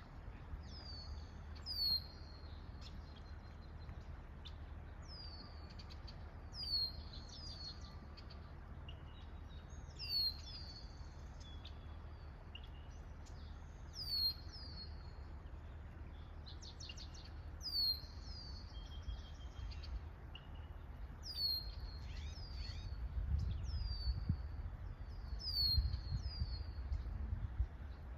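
Birds calling: a loud, high, down-slurred chirp that repeats every three to four seconds and comes faster near the end, with fainter chirps in between and a steady low rumble underneath.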